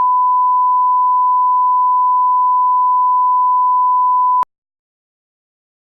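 Electronic beep: one steady, loud pure tone held for about four and a half seconds, then cut off sharply.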